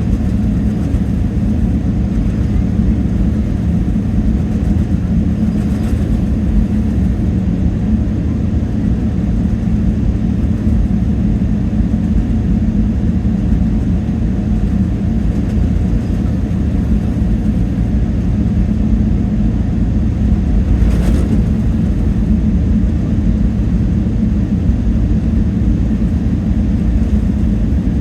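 Steady drone heard inside the cabin of a Boeing 777-300ER in flight: the low rumble of its GE90-115B engines and rushing air, with a constant hum underneath.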